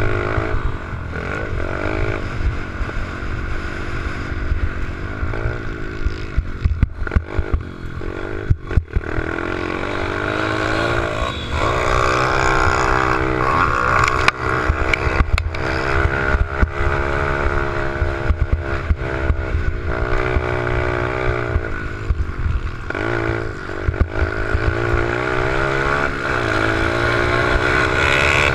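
Small pit bike engine riding hard, its pitch climbing and dropping again and again as it revs through the gears and backs off, with wind rumbling on the microphone.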